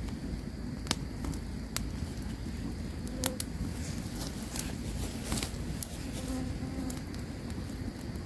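Campfire crackling, with sharp pops every second or so over a steady low rumble. A buzzing insect flies close by twice, briefly around three seconds in and again for about a second near the end.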